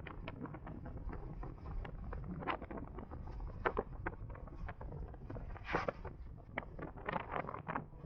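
Wind buffeting and rumbling on the microphone of a moving electric motorcycle, with irregular sharp crackles and knocks, louder bursts of them about halfway through and near the end.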